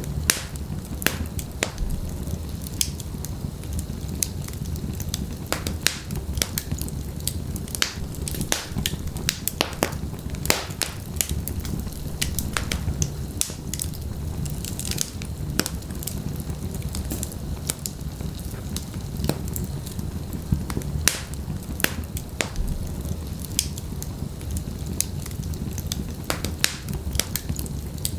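Wood fire burning in a fireplace: logs crackling and popping in sharp irregular snaps over a steady low rumble of the flames.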